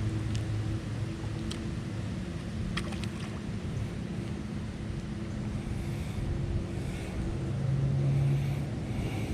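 A boat motor running steadily with a low hum, over wind and water noise, with a few faint clicks.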